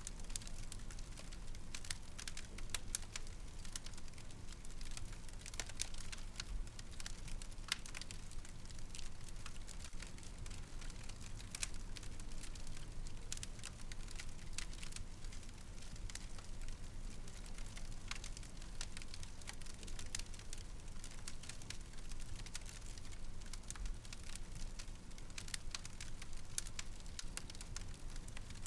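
Wood fire crackling in a fireplace: many small irregular pops and snaps over a steady low background of burning.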